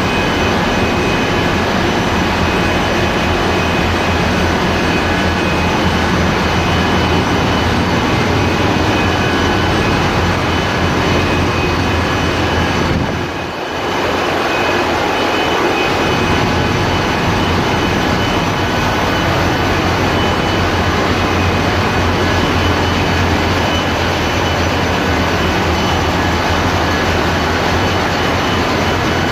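Steady, loud machinery noise of a ship's engine room with its diesel engines running: a constant low drone with a dense hiss and faint steady whines above it. The noise briefly drops about halfway through, then returns to the same level.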